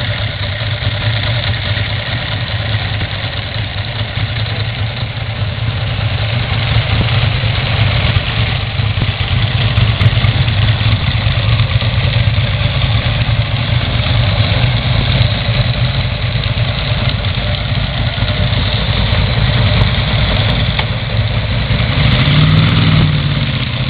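Several Ducati V-twin motorcycle engines idling together, running steadily. Near the end one engine revs up.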